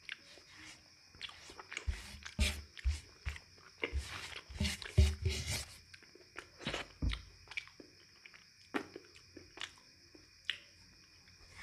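A person chewing and eating a meal, with irregular wet mouth clicks and smacks, busier in the first half and sparser later.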